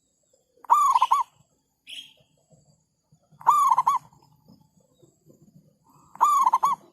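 Zebra dove (perkutut/merbuk) calling three times, each a short run of quick wavering coos, about three seconds apart.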